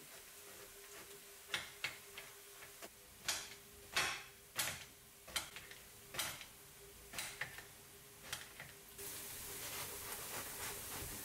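Kitchen knife chopping an eggplant into cubes on a cutting board: a dozen or so irregular sharp knocks. Near the end a steady hiss sets in.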